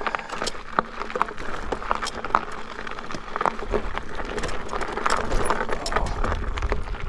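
E-bike rattling and clattering over a rough, broken-asphalt road surface, with many short knocks from the bike's frame and parts over a low rumble of the tyres.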